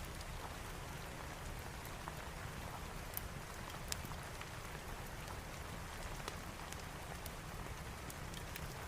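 Steady rain with a low rumble underneath and occasional sharp crackles.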